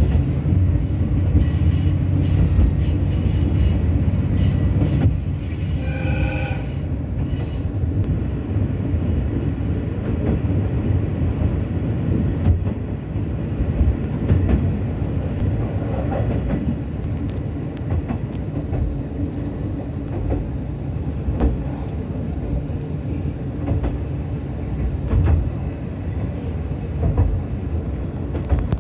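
Diesel railcar running on the line, heard from inside the car: a steady rumble of engine and wheels on rail, with clicks from the rail joints. The engine drone is strongest in the first few seconds, and about six seconds in a brief high ringing tone sounds.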